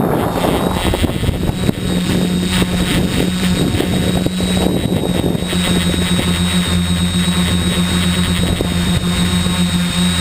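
Tricopter's three brushless motors and propellers whining steadily in flight. Ragged wind noise on the microphone is heavier in the first half.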